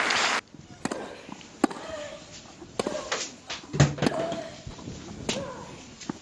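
Crowd applause that cuts off abruptly about half a second in, then a tennis rally: sharp racket strikes on the ball about once a second, with the players' short grunts on several shots.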